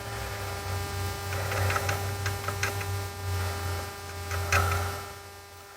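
Low steady electrical hum from bench rework equipment, with scattered light ticks and scrapes of a tool working on a circuit board. The hum cuts off about five seconds in.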